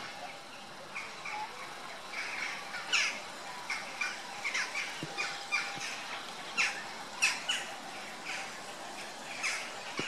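Several birds calling: short, sharp calls that fall in pitch, a few a second at an irregular rhythm, with the loudest a little after the middle.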